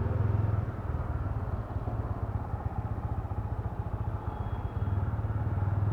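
Motorcycle engine running under the rider as it moves through traffic, heard from inside the helmet. It eases off about half a second in and picks up again near the end.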